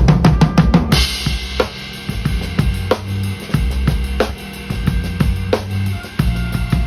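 Live band playing with drum kit and bass guitar. It opens with a fast, even run of drum hits. About a second in, the full band comes in with cymbal wash, kick and snare, and held bass notes.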